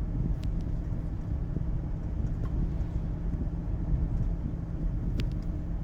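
Steady low road and engine rumble heard from inside a moving car, with a few faint clicks.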